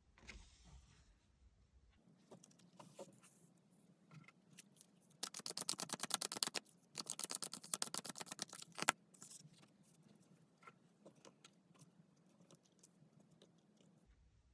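Tarot cards being shuffled and handled: scattered soft taps and slides, then two quick runs of rapid card clicks, one just past the middle and a second right after it.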